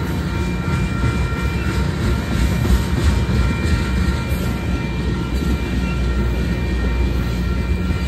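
A train rolling past: a steady low rumble with faint steady high-pitched tones above it.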